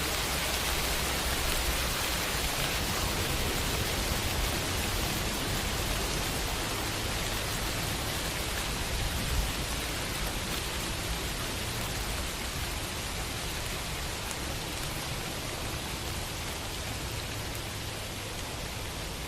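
Steady rain falling on a window pane, an even hiss of many drops that eases slightly towards the end, with one louder tap about halfway through.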